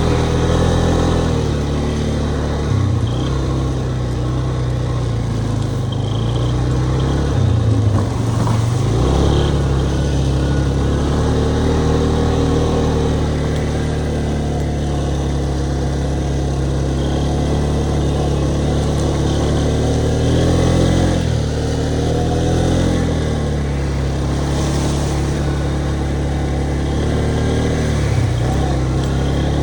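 ATV engine running under way, its pitch repeatedly rising and falling with the throttle.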